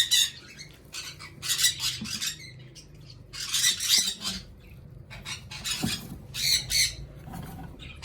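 Parrot squawking: a series of harsh screeches about every second and a half to two seconds.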